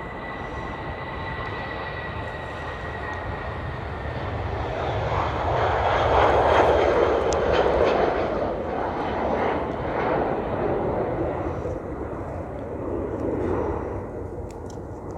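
Airliner passing the camera: a steady high whine that fades over the first few seconds, then engine noise that swells to a peak about six to eight seconds in and dies away.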